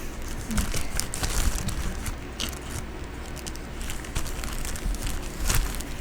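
Close-up rustling and crinkling with irregular small clicks, as hands sort through and handle small craft items.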